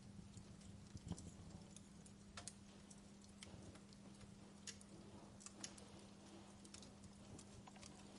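Wood fire burning in a fireplace, crackling softly with scattered irregular pops and snaps, one sharper pop about a second in, over a faint steady low hum.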